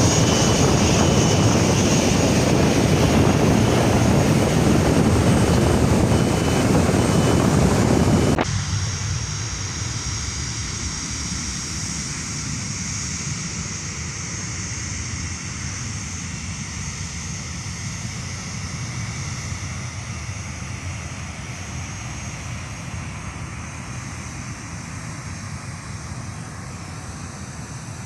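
Airbus A330-300 airliner's jet engines, a loud, steady roar that drops abruptly about eight seconds in to a much quieter jet rumble, which slowly fades.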